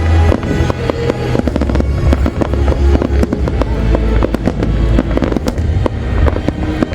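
A fireworks display going off without a break: dense, overlapping bangs and crackles from many shells bursting in quick succession over a heavy low rumble.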